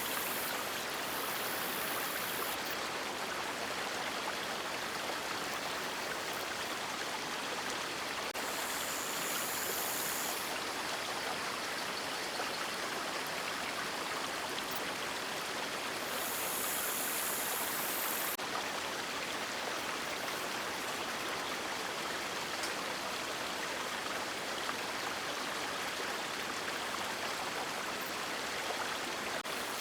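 River water flowing steadily, a continuous rushing of moving water, with a brief higher hiss rising over it three times.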